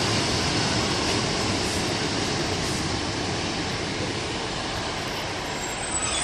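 Class 150 diesel multiple unit running through the station, a steady noise of engine and wheels that slowly eases off, with a brief high squeal of wheels or brakes near the end.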